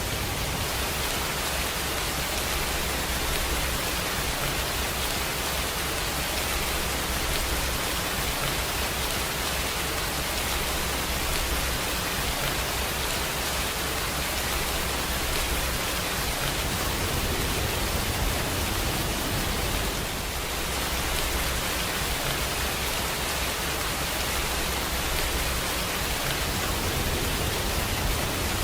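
Steady rainfall, an even wash of rain noise with a low rumble underneath and no distinct drops standing out.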